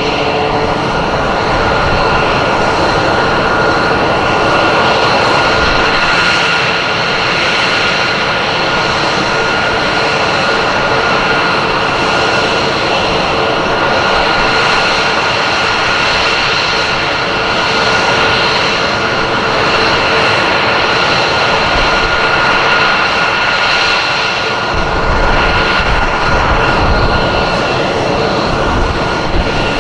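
Jet fighter's engines (F-22 Raptor) running steadily in flight: a loud continuous rush with a steady high whine over it. The low rumble grows heavier near the end.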